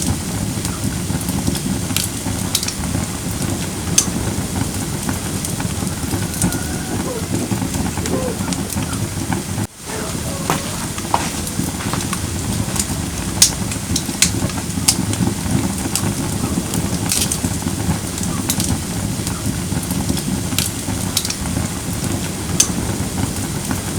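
Firewood burning in a fire pit, crackling steadily with frequent sharp pops over a low rushing of the flames. The sound briefly drops out a little before halfway.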